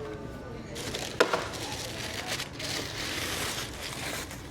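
Shoebox packing paper rustling and crinkling as shoes are handled, with one sharp knock just after a second in.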